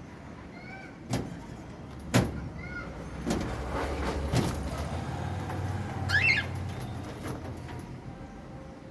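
Albino cockatiel giving a few short chirps and, about six seconds in, a brief warbling whistle, over a low rumble that swells through the middle. Several sharp knocks fall in the first half, the loudest about two seconds in.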